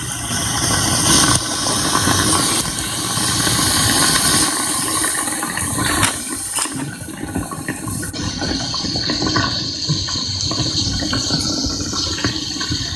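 Heavy rain pouring down with rain striking close to the phone's microphone, a dense steady hiss with a few sharper taps about six seconds in.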